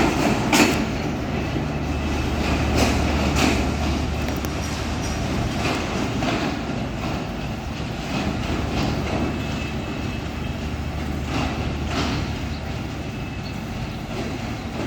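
Intercity passenger train moving out of a station: a steady rumble and low drone, with irregular sharp clacks of the wheels over rail joints.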